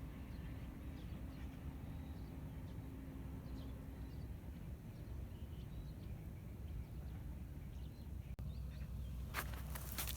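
Quiet open-air ambience: faint, scattered bird chirps over a steady low rumble, with a few sharp clicks near the end.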